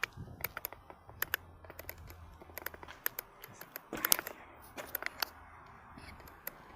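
Irregular sharp clicks and taps, several a second, with a louder cluster about four seconds in, over a faint low rumble.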